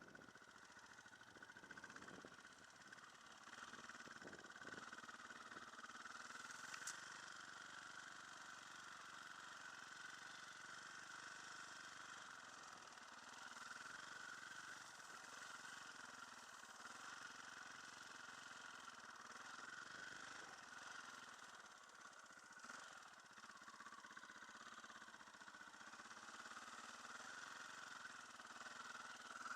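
Faint, steady running of a dirt bike engine.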